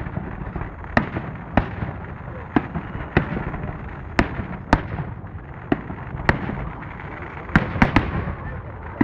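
Aerial fireworks display: about a dozen sharp bangs of shells bursting, one every half second to a second, with a quick cluster near the end, over a continuous low rumble of the ongoing barrage.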